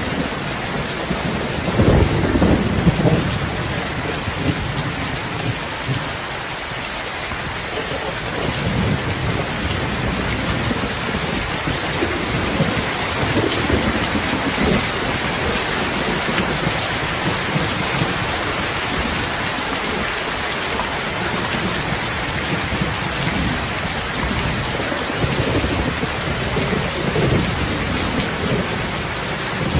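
Heavy, steady rain hissing, with low rolls of thunder swelling and fading several times, the strongest about two seconds in.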